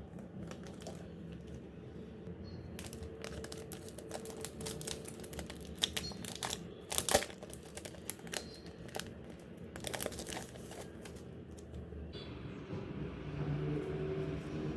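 Packaging being crinkled and handled, in a dense run of crackles and small clicks from about three seconds in until about twelve seconds in, over a steady low background hum.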